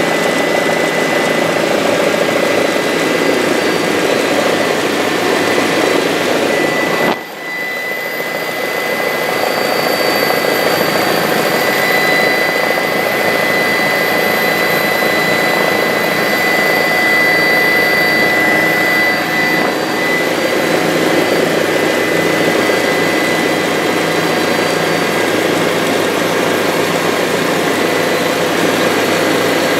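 Bell 407 helicopter in flight: the steady whine of its turbine and the drone of its rotor. The level dips sharply about seven seconds in and recovers within a second or two.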